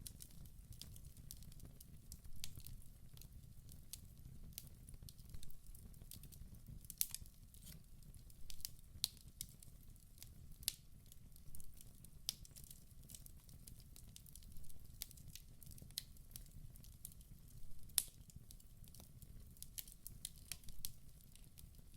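Wood fire burning in a fireplace: a low steady rumble of flame with sharp crackles and pops at irregular moments.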